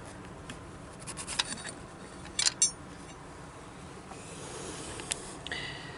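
Light handling sounds from work on an opened engine cylinder head: a few short clicks and taps, with faint rubbing between them.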